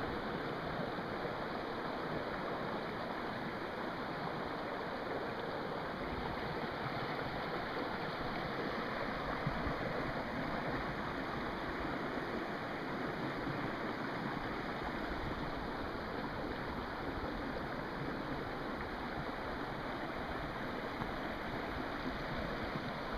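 Creek water rushing steadily over rocks, an even, unbroken noise.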